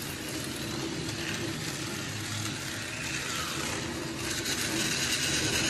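Small battery-powered toy race car whirring along its plastic track, a steady whir that gets louder and brighter about four seconds in.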